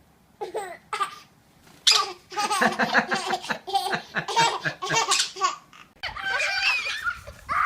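A baby laughing: a few short giggles, then a long run of breathy belly laughs. Near the end the laughter gives way to a different sound.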